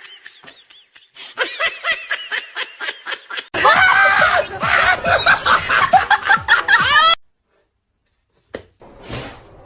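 People laughing in quick repeated bursts, louder from about a third of the way in, then breaking off suddenly; a few more short bursts near the end.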